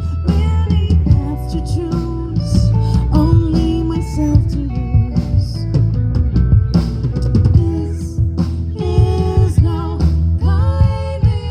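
Live band playing a song: drum kit and guitar, with a voice singing over them.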